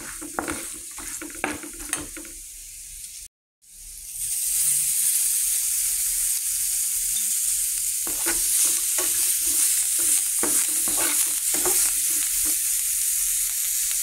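Chicken pieces and chopped garlic frying in butter in a pan, sizzling steadily, while a spatula scrapes and stirs them. The sound breaks off briefly about three seconds in and comes back as a louder, hissier sizzle, with the spatula strokes returning from about the middle.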